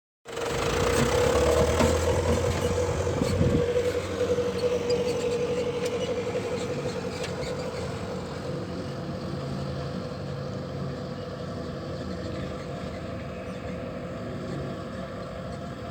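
Heavy diesel earthworks machinery running steadily during compaction of railway fill, a low engine hum with a steady whine over it, loudest early and growing gradually quieter over the first half.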